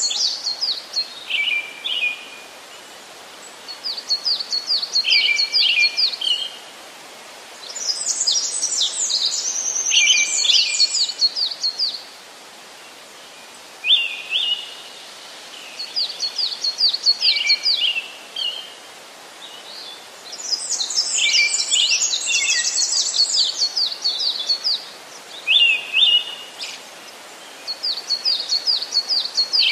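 A songbird singing: short high trilled phrases that drop to lower notes, repeated every few seconds over a steady faint hiss.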